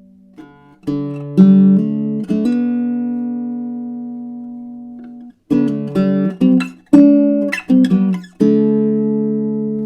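A plucked acoustic string instrument playing unaccompanied: two strummed chords that ring out and fade, a quick run of single picked notes, then another chord left to ring.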